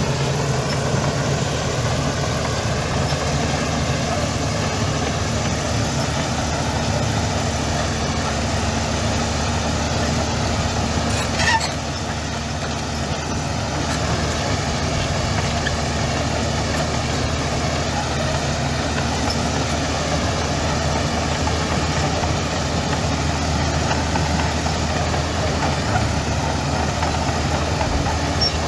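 Heavy diesel earthmoving machinery engine running steadily at a low idle-like pace, with one short sharp sound about eleven seconds in.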